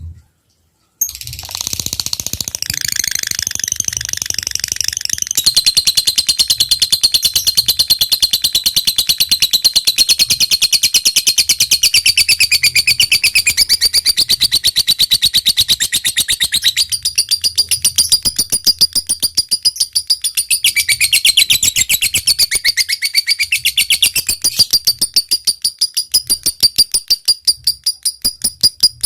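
Lovebird in full song giving a long, very rapid, high-pitched chattering trill (ngekek panjang), starting after a moment's silence at the start. Near the end the trill breaks up into separate clicking calls a few per second.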